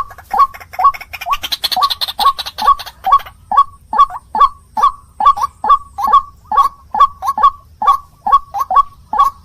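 White-breasted waterhen (ruak-ruak) calling over and over: a loud, monotonous string of short croaking notes, about two to three a second, each falling in pitch. A brief raspy hiss joins in between about one and a half and three seconds in.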